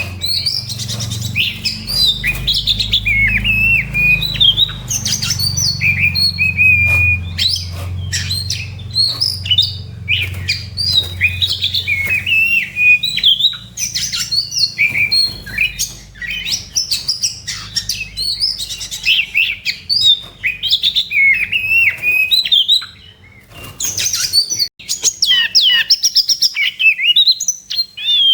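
Oriental magpie-robin (kacer) singing its aggressive 'fighting' song: a rapid, nearly unbroken run of varied high whistles, glides and sharp chattering notes, with a brief pause about 23 seconds in.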